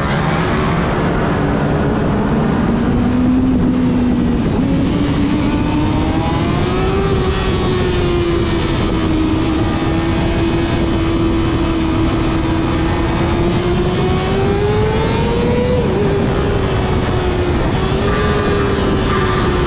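Motorcycle engine running while riding, its revs holding fairly steady with a few slow rises and dips.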